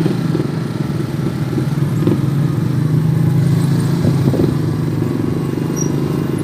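Motor vehicle engine running steadily with road noise, a continuous low hum.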